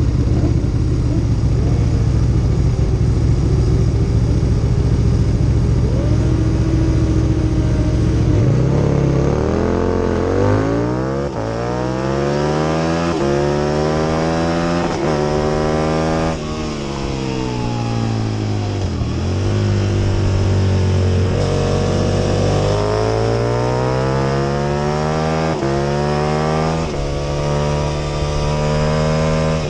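Onboard sound of an Aprilia RSV Mille R's 998 cc V-twin: a heavy steady rumble for about the first eight seconds, then the engine note climbing and dropping repeatedly as the bike accelerates through the gears and slows for corners.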